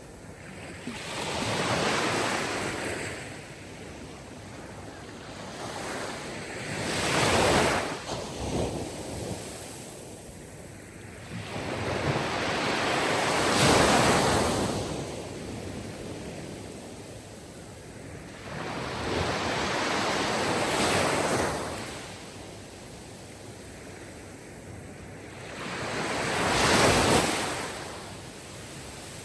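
Sea waves surging in and washing back, about five swells that each rise and fade over a few seconds.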